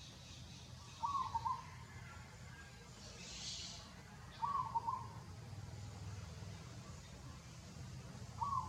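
A bird calling over and over: a short two-part call about half a second long, given three times about three and a half seconds apart, over a steady low rumble.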